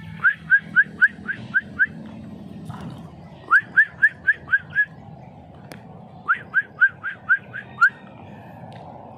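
Human whistling: three runs of short, sharply rising notes, about four a second, each run lasting about a second and a half, aimed at the hatchlings in the nest.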